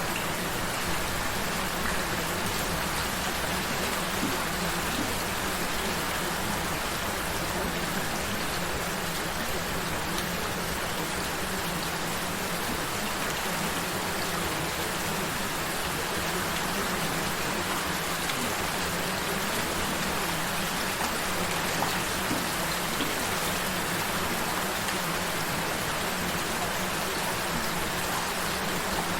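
Steady, gentle rain falling, an even patter that does not let up, with a low steady tone underneath.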